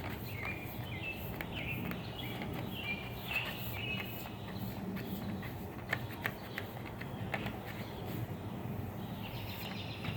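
Outdoor background with short bird chirps in the first half and a few sharp clicks or taps after the middle.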